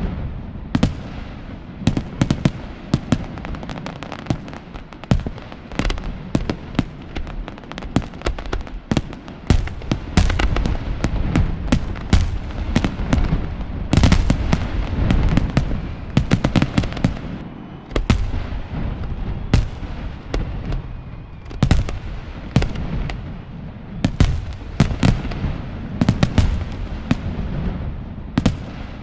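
Fireworks salute: a rapid, irregular series of sharp bangs from bursting shells, several a second, over a continuous low rumble.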